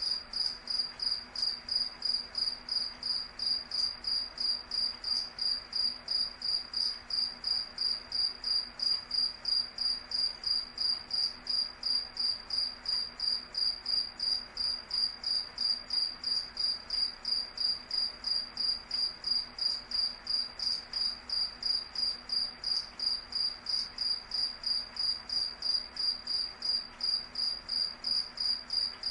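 Cricket chirping in a steady, even rhythm, about three chirps a second, each chirp a single high-pitched tone.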